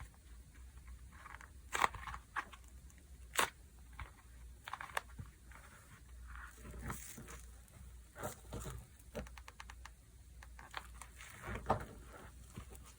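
Slime being squeezed, stretched and poked by hand: irregular sticky clicks, pops and soft tearing sounds, with a quick run of small pops about nine seconds in.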